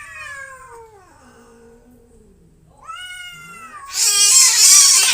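Two cats squaring off: long, drawn-out yowls that sink in pitch, a second wailing yowl about three seconds in, then a sudden loud burst of hissing and screeching as the fight flares up, about four seconds in.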